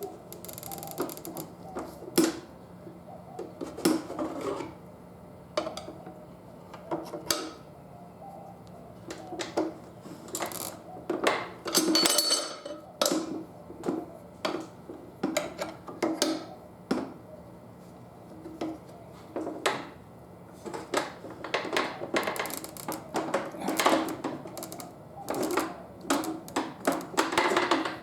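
Homemade tyre lever being forced around a motorcycle wheel rim, with irregular metal clicks, knocks and scrapes against the rim and tyre bead and a longer scrape about twelve seconds in. The bead drags along with the tool, so it turns only with effort. A steady low hum runs underneath.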